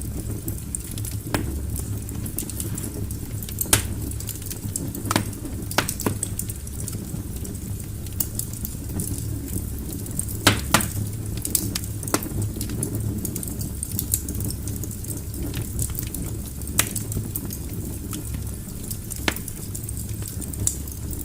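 Wood logs burning in a fireplace: a steady low rumble of flames with irregular crackles and pops, a few sharper snaps scattered through.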